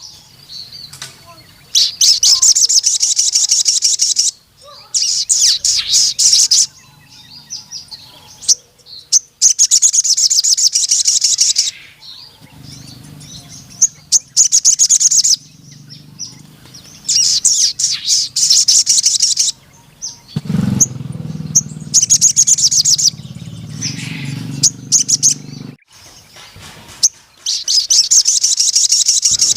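Sogon (crimson sunbird) singing vigorously in repeated bursts of rapid, high, trilling notes, each burst two to three seconds long, about six in all, with short pauses between.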